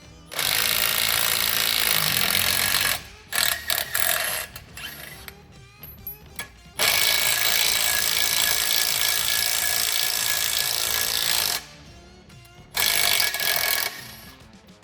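A power tool running in long bursts, about four seconds and five seconds long, with short blips between, each starting and stopping abruptly.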